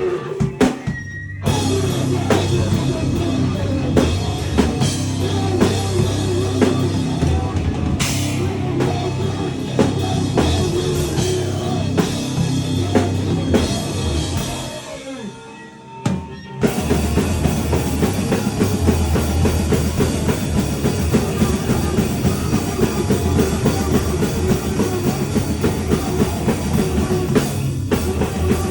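A live powerviolence band playing loud, fast music with a pounding drum kit. It stops for about two seconds midway and then crashes back in.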